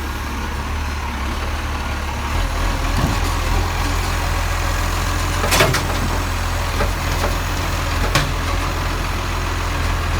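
Garbage truck engine running steadily with a low rumble, with two sharp knocks about five and a half and eight seconds in.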